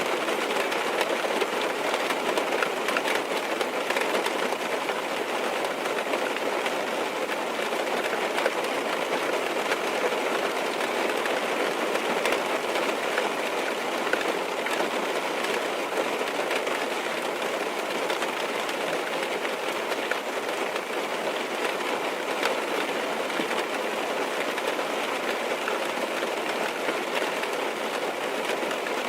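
Rain falling on a car's roof and windows, heard from inside the car: a steady, dense hiss of drops with scattered small ticks.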